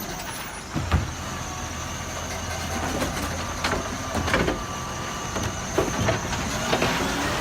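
Garbage truck engine idling with a steady low hum, with several sharp knocks and clanks scattered through it.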